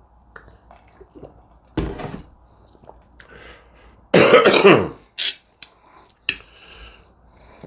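A man coughs to clear his throat: a short one just before two seconds in, then a louder, longer one about four seconds in that falls in pitch, followed by a few short clicks.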